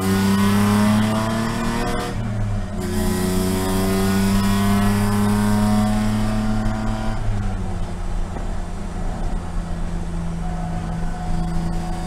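Spec E46 BMW race car's straight-six engine heard from inside the cabin, pulling under throttle with a rising note, a brief break for an upshift about two seconds in, then climbing again. About seven seconds in the note drops and settles to a steady, lower part-throttle note.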